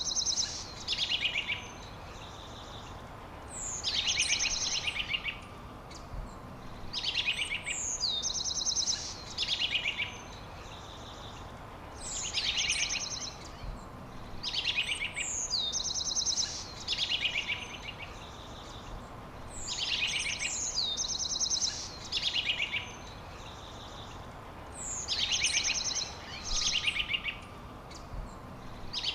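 A songbird singing the same short phrase again and again, every two to three seconds: a high whistle falling in pitch, then fast buzzy trills.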